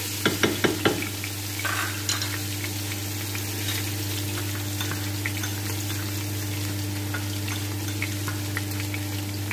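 Onion pieces and minced garlic frying in hot ghee in a pot, sizzling steadily. A wooden spatula knocks quickly against the pot about five times in the first second.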